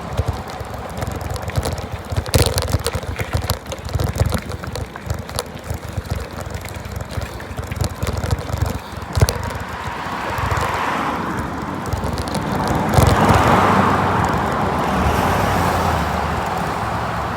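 Wind buffeting the microphone of a camera riding along on a moving bicycle, with a gusty rumble and scattered rattles and clicks. In the second half a smoother rushing noise swells, loudest a little past two-thirds through, then eases off.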